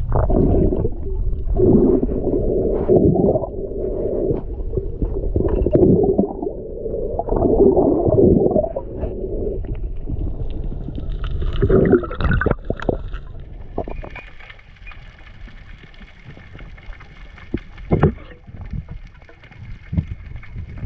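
Muffled underwater sound through a diving camera's housing: repeated gurgling surges about a second long, then a quieter stretch with scattered clicks.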